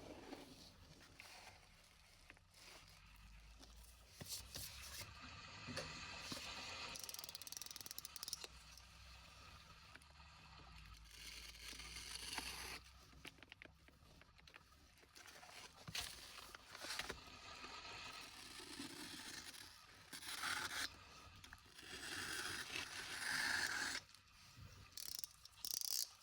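Irregular scraping and rustling from hands handling material, with bursts of tearing and crinkling, louder in the second half.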